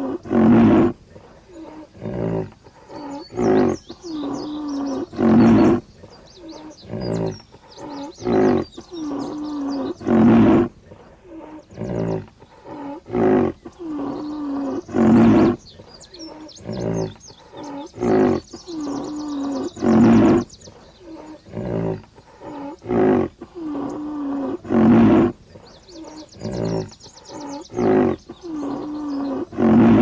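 A large animal's roaring calls repeating in a regular cycle, one loud call about every five seconds with several shorter, softer calls between.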